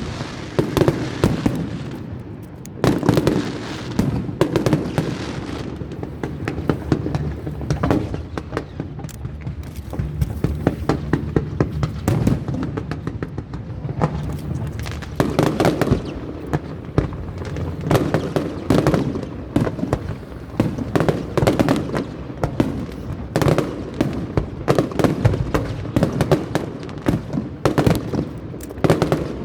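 Aerial fireworks going off in rapid succession: a continuous barrage of bangs and crackling, with clusters of heavier booms every few seconds.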